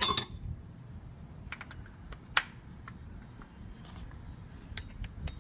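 Metal hand tools clink sharply at the start, with a brief ring, then come scattered light clicks and taps of a socket extension being handled and fitted to a wrench, one louder tap about two seconds in.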